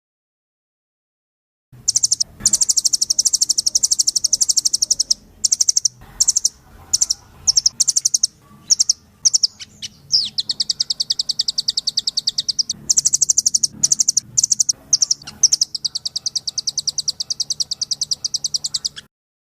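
Nuthatch (rambatan) in full song: long, fast trills of high, evenly repeated notes, about ten a second, in runs broken by short pauses, starting about two seconds in.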